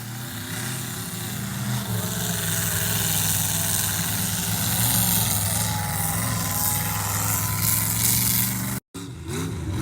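Mud bog truck engine running steadily at idle. The sound drops out briefly near the end.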